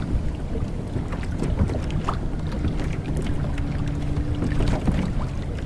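Motorboat engine running, with wind noise over it; a steady engine hum stands out from about two and a half to five seconds in.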